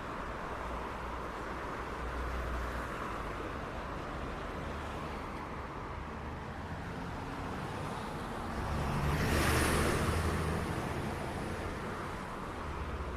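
City street traffic: steady road noise from passing cars, with one vehicle passing close and swelling to the loudest point about nine to ten seconds in.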